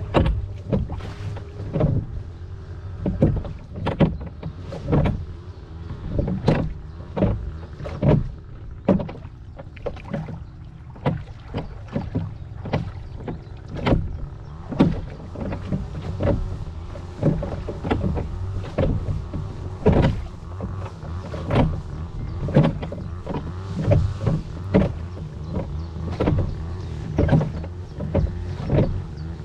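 Rowing boat's oars working in steady strokes, a sharp splash-and-knock every second or so, over a low steady rumble of wind on the microphone.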